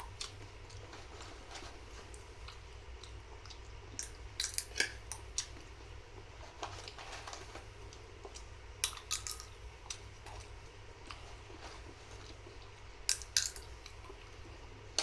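Cutlery clinking and scraping on a plate while eating fried rice: scattered short clicks, a few in quick succession, over a steady low hum.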